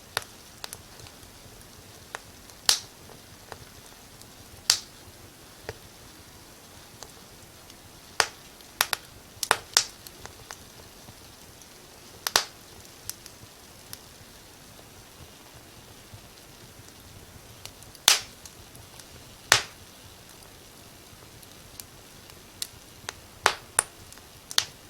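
Wood fire crackling in a fireplace: sharp snaps and pops at irregular intervals, about a dozen loud ones among many small ticks, over a soft steady hiss.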